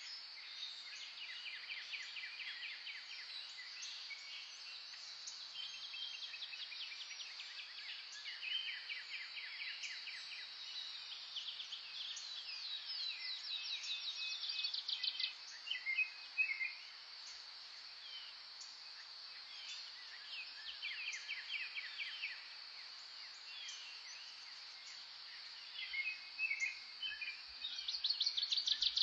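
Birds singing in repeated rapid trills and chirps, over a steady high-pitched insect drone. The song grows louder in the middle and again near the end.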